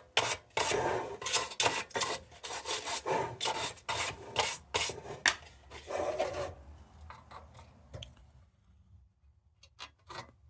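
A quick run of short rasping, scraping strokes on metal, about two or three a second, that stops about six and a half seconds in, followed by a few faint scattered clicks.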